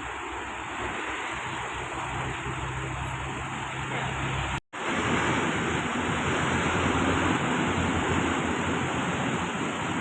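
Diesel truck engine running with heavy road and wind noise, a steady rush with a low engine hum underneath. The sound cuts out for an instant about halfway through, then carries on slightly louder.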